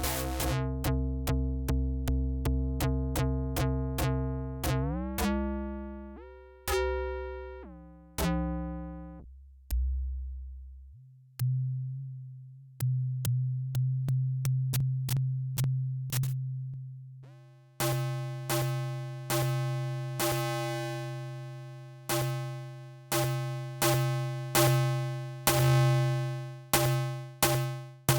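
Elektron Syntakt's SY Tone digital synth engine playing a sequenced pattern of pitched notes, dry with no effects. Each note starts sharply and decays; partway through the notes step and slide upward in pitch, then a low repeating note takes over, growing brighter near the end.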